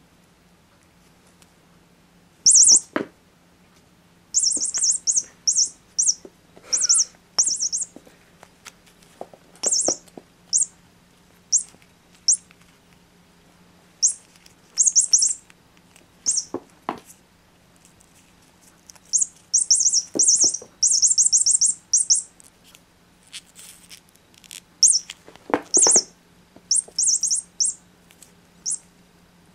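Electronic chirping toy bird peeping in quick runs of high chirps, set off again and again in irregular bursts as a cat bites and shakes it, with a few knocks in between.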